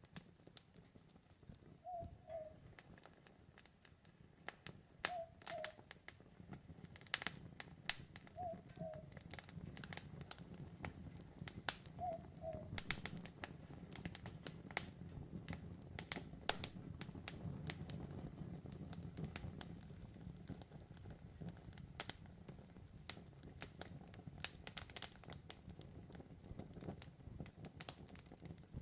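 Campfire crackling and popping in sharp irregular snaps over a steady low rush of burning. An owl hoots in short two-note pairs four times, every three seconds or so, in the first half.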